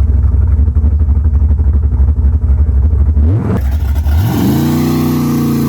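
Car engine idling with a loud, lumpy rumble, then revving up about three seconds in, dipping, and climbing again as the car pulls away, settling into a steady higher note. This is a drag launch made on too little RPM.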